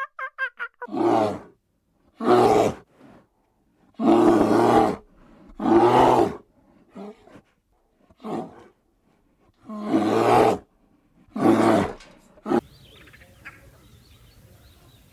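Lion roaring: a bout of about seven loud, hoarse roars and grunts, each under a second long, with short gaps between, stopping about 12 seconds in. Before the roaring a different animal gives a quick string of pulsed calls, and faint chirps follow once it ends.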